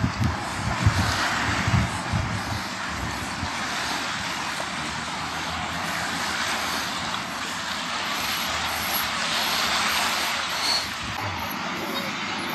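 Beach ambience: a steady rushing wash of surf and sea breeze that swells slowly, with low thumps in the first few seconds.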